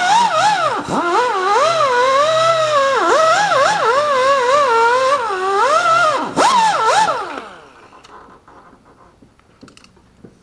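A dog howling: one long, wavering howl that rises and falls in pitch and dies away about seven and a half seconds in.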